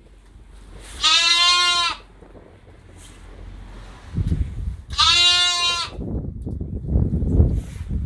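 A lamb bleats twice, each call loud and lasting just under a second, the two about four seconds apart. From the middle on, wind buffets the microphone with an uneven low rumble.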